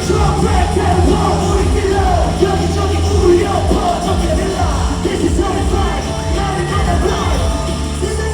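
Loud rock-edged pop music through an arena sound system, with heavy bass and many voices singing and yelling over it.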